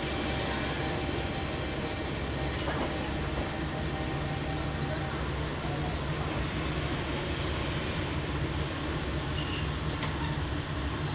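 Diesel railcar running slowly into the station, its engine and running gear a steady low rumble, with a few faint high-pitched metallic squeals in the later seconds.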